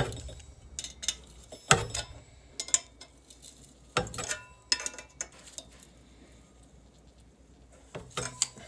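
Irregular clicks and taps of small metal parts and a hand tool being worked by hand while an igniter's mounting nut and cover plate are fastened on a furnace.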